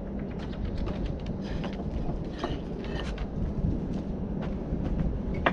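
Bricklaying work sounds: a few short knocks and clicks of a trowel and bricks on the mortar bed, over a steady low rumble.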